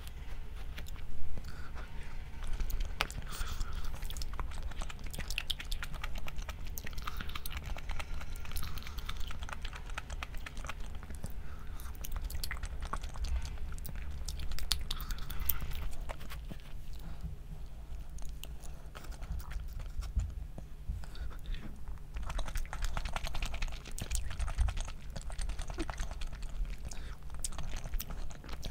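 A person chewing and biting food close to the microphone: many small irregular clicks throughout, over a low steady hum.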